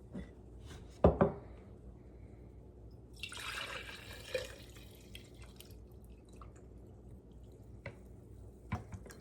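Kitchen handling sounds: a sharp knock about a second in, a rush of splashy noise lasting about a second around the middle, and a few light clicks near the end.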